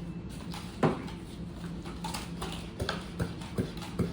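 A steady low hum with irregular short knocks and clicks over it. The loudest knock comes about a second in, and several lighter ones follow in the second half.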